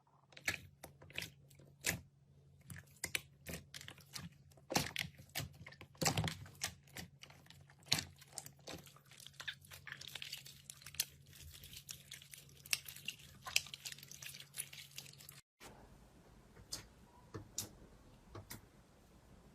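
Slime worked by hand, giving a run of irregular crackling clicks and pops over a faint low hum; after a brief break about fifteen seconds in, the clicks come more sparsely.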